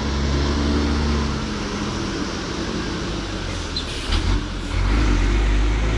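A vehicle's engine running steadily under way, with a couple of short knocks about four seconds in, after which the low rumble grows louder.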